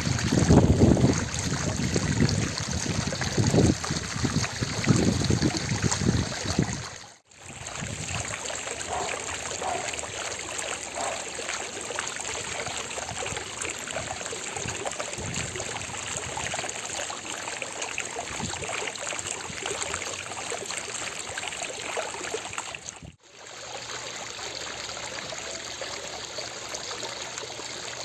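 Water from a fountain splashing and trickling in a steady, even rush. It is louder, with low rumbling, for the first seven seconds or so, and it cuts out for an instant about seven seconds in and again near the end.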